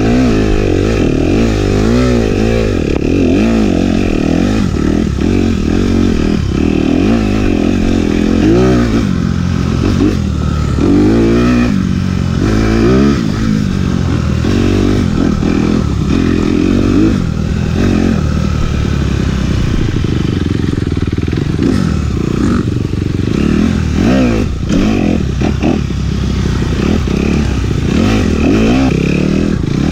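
Dirt bike engine revving up and down as it is ridden, its pitch rising and falling every second or two.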